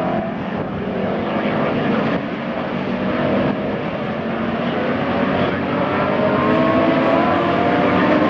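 A field of Grand-Am sports racing cars running together at race pace, many engines sounding at once. In the second half several engine notes climb in pitch as the cars accelerate, and the sound grows a little louder toward the end.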